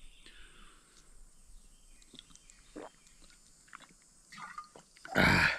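A plastic water bottle being handled and opened: faint clicks and rustles, then one loud, short, rough burst of noise near the end.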